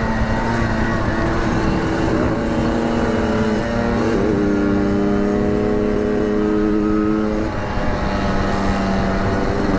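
Two-stroke motorcycle engine running on the move, its note holding fairly steady with a few shifts in pitch, over a steady rushing noise.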